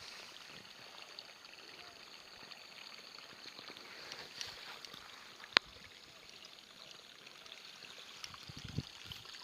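Small stream running steadily, with one sharp click about five and a half seconds in and a short low knock near the end.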